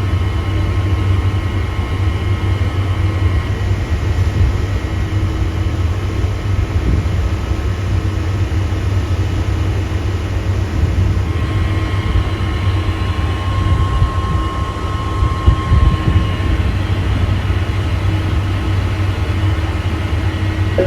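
Steady low rumble with rapid flutter and a few faint, steady hum tones over it, unchanging throughout.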